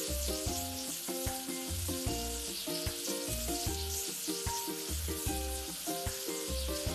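Steady hissing water-spray sound effect rinsing foam off a vehicle in a car-wash game, over a light looping background tune with a bouncing bass line.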